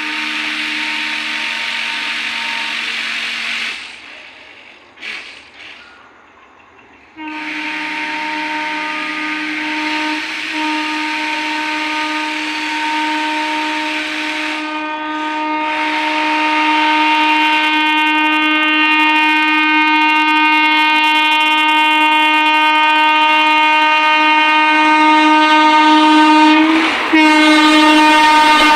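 Indian Railways locomotive horn on a train approaching at speed. A blast of a few seconds, two short toots, then one long continuous blast of about twenty seconds that grows steadily louder and drops in pitch at the end as the locomotive passes.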